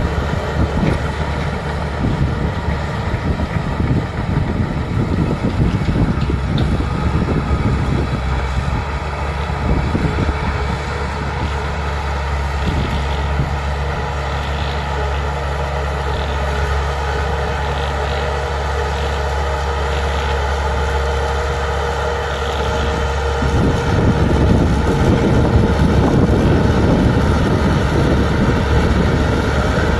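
Bulldozer's diesel engine running steadily at work, getting louder and rougher about 24 seconds in.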